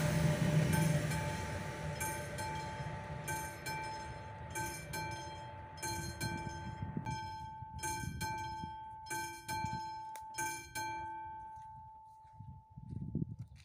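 Level-crossing warning bell of an AŽD 71 crossing ringing in regular strikes, about three every two seconds, as the noise of a passing train fades; the bell stops near the end and its last strike dies away.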